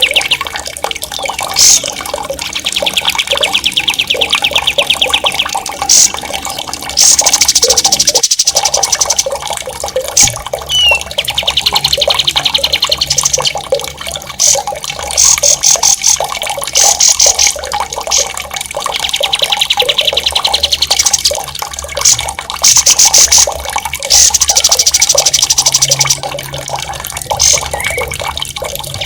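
Songbird singing loud, sharp rolling trills: long runs of very fast repeated notes lasting a few seconds each, broken by short high chirps, over the steady rush of running water.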